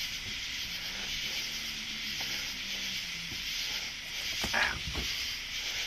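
Steady high-pitched chorus of night insects. About four and a half seconds in there is a brief scuffle with a couple of low thumps.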